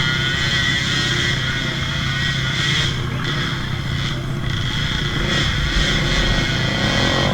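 Off-road trail motorcycle engines running and revving, with a steady high-pitched whine alongside.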